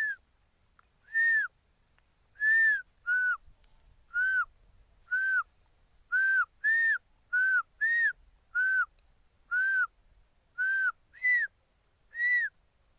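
A man imitating a peacock chick's call with his mouth: a series of short whistled notes, each rising and then dropping in pitch, repeated about once a second with uneven spacing.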